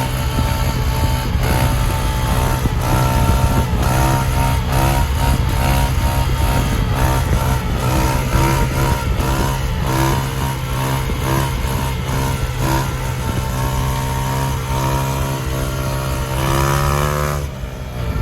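Yamaha YZ450F dirt bike's 450 cc single-cylinder four-stroke engine revving hard under riding load. Its pitch climbs and drops again and again as the rider goes through the gears, then it falls away sharply near the end.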